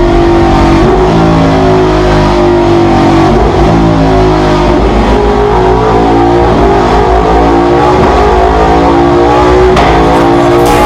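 A big motorcycle's engine running hard and steadily, its pitch sagging slightly and rising again.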